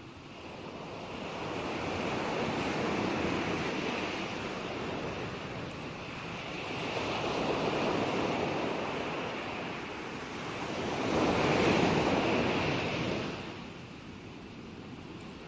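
Gentle ocean waves breaking and washing ashore: a steady hiss of surf that swells and falls back three times, about every four seconds, the last swell the loudest.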